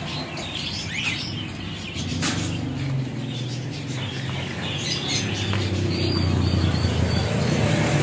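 Scattered short chirps of small cage birds, over a steady low hum that grows louder in the second half.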